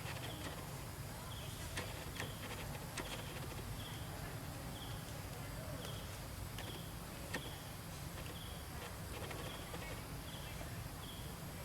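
An animal's short high chirp, repeated steadily about every two-thirds of a second, over a steady low rumble, with a few light clicks.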